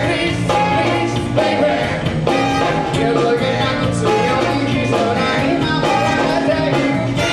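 Live band music with a steady beat, played loud.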